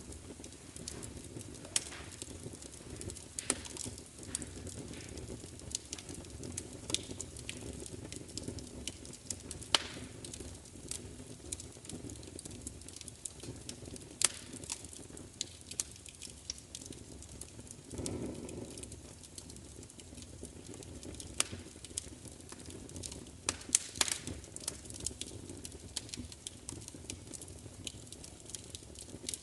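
Fire crackling, with frequent irregular sharp pops over a steady low rustle, and a brief swell of fuller flame noise about two-thirds of the way through.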